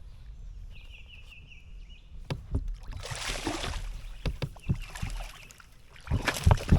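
Water splashing and hollow knocks on a kayak hull in two short spells, the second and louder near the end. A bird chirps a quick run of notes near the start.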